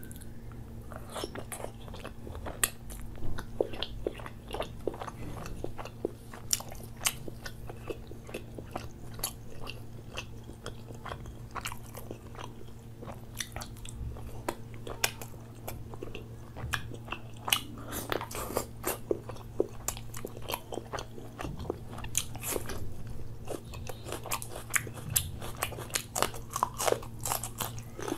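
Close-miked eating: biting and chewing of butter chicken and garlic naan, with many quick wet mouth clicks and crunches. A steady low hum runs underneath.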